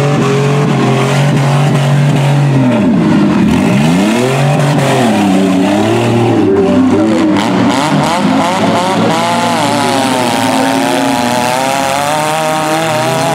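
Several demolition-derby minivan engines revving hard at once, their pitches rising and falling over one another as the vans accelerate and back off in the arena.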